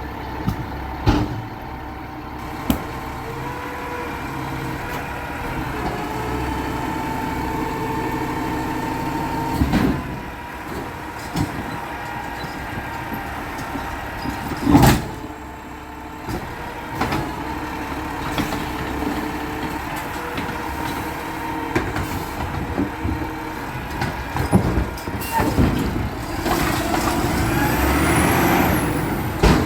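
Garbage truck running, with several sharp bangs, the loudest about halfway through, and a rising hiss near the end.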